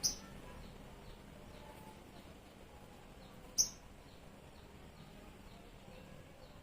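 Sogon songbird calling: a sharp, high note right at the start and another about three and a half seconds in, over faint, rapid chirping throughout.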